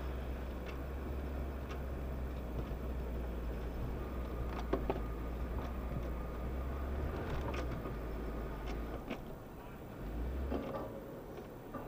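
Off-road 4x4 engine running with a low, steady rumble and a few sharp knocks. The rumble drops away about nine seconds in, comes back briefly, then fades again.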